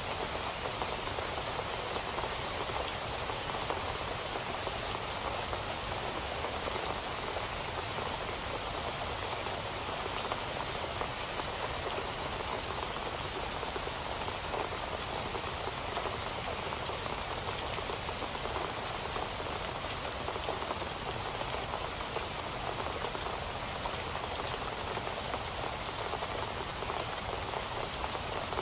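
Steady rain falling on a surface, a dense even patter of drops with no thunder or change in intensity.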